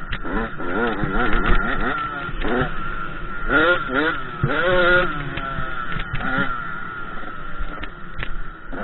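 KTM 85 SX two-stroke motocross engine revving, its pitch rising and falling repeatedly as the throttle opens and closes.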